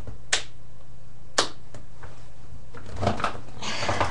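Two sharp clicks about a second apart, then softer noises near the end, over a steady low hum.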